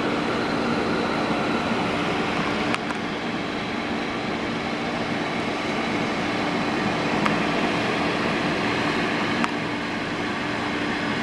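Steady hiss with a low hum underneath, broken by a few faint clicks about three, seven and nine seconds in.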